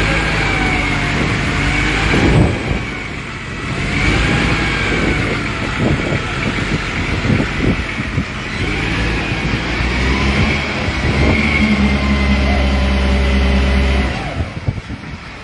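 A vehicle engine running under load and rising in revs, with a faint wavering high whine. It eases off sharply about a second before the end.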